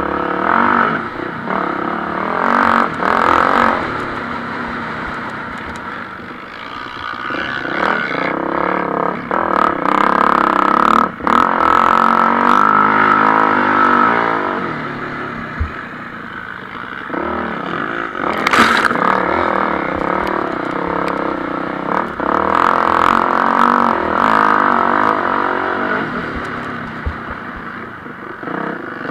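MX1 motocross bikes running on the track, their engines revving up and down as they accelerate and shift. The sound swells and fades several times, loudest around ten to fourteen seconds in and again just after twenty-two seconds.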